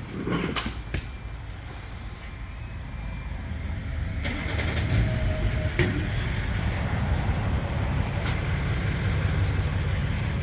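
Low engine rumble of a vehicle running, growing louder about four seconds in, with a few sharp knocks and rattles from parts and packaging being handled.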